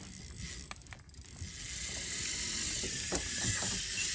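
Fishing reel's drag ratcheting as a fish pulls line off after taking the bait, growing louder about a second and a half in.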